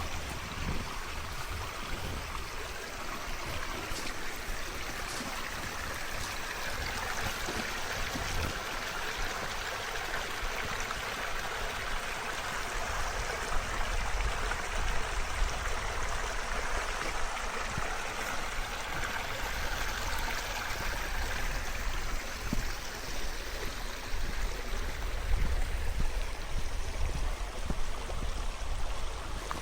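A canyon creek running after a week of rain: the steady rush of flowing water, a little fuller in the middle, with a low rumble underneath.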